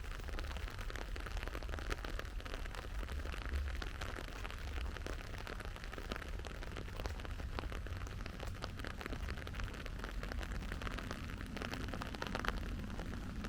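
Steady rainfall, a dense patter of drops over a constant hiss, with a low rumble underneath.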